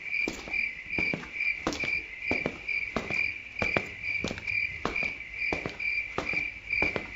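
A cricket chirping in an even rhythm, about two to three short chirps a second, with footsteps walking at a steady pace.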